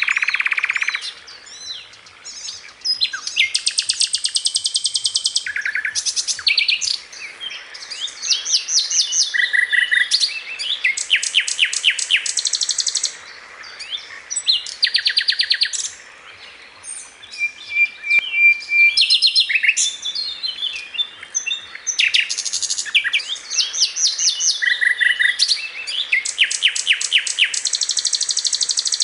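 Sikatan londo (a flycatcher) singing a long, varied song of high, rapid trills, rattling note series and short whistled phrases, with brief pauses between bouts.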